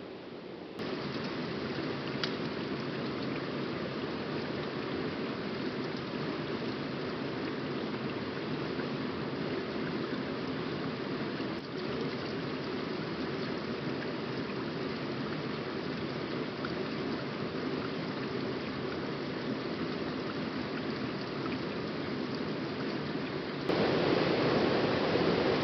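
Steady rush of a waterfall's falling water. It steps up abruptly about a second in and gets louder again near the end.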